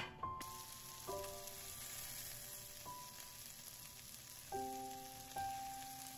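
Pork-belly rolls frying in oil in a nonstick frying pan: a steady sizzle that starts just after the beginning.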